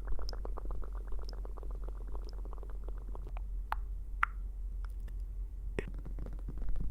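Ear-cleaning tool scraping and tapping against a microphone's ear: a dense run of small scratchy clicks that thins out about halfway, with a few louder sharp pops around four seconds in and again near six seconds.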